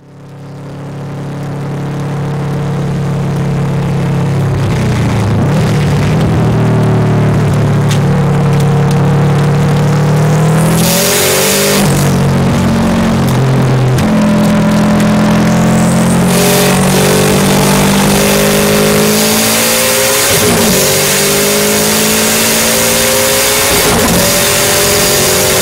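Onboard sound of a Subaru Impreza STi time-attack car accelerating hard on track, its turbocharged flat-four engine climbing in pitch through each gear and dropping sharply at several upshifts. The sound fades in at the start.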